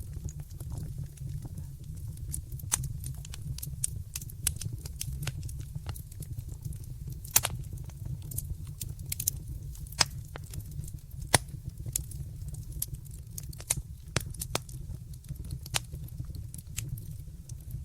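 Wood fire in a fireplace crackling: a steady low rumble under frequent irregular pops and snaps, with a few sharper ones now and then.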